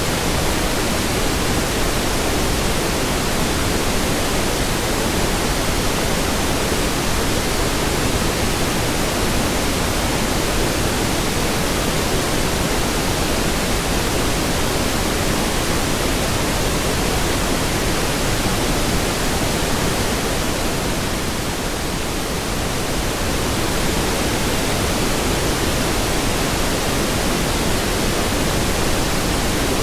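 Steady pink noise: an even, hissing rush spread over every pitch, with no tones or clicks. It softens slightly for a couple of seconds about three-quarters of the way through, then returns to its full level.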